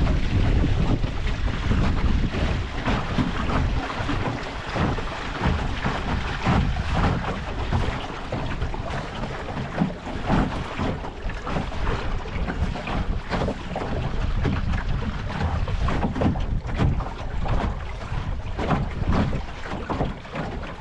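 Wind buffeting the microphone over the rush and splash of water along the hull of a Mirror dinghy under sail.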